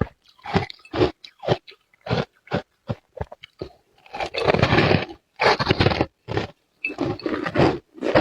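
Ice being bitten and chewed close to the microphone, with crisp crunches separated by dead silence. It starts as short bites at about two or three a second, then from about four seconds in turns to longer bursts of crunching.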